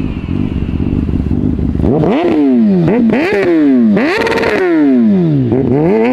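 Motorcycle engine idling with a steady low rumble, then revved repeatedly in quick blips from about two seconds in, each rise sharp and each fall slower.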